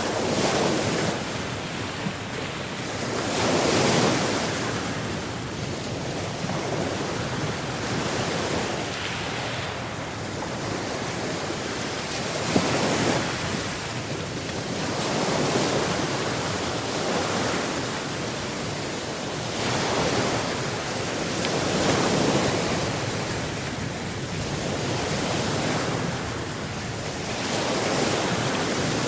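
Atlantic Ocean surf breaking on the shore, a steady wash that swells and ebbs every few seconds as each wave comes in.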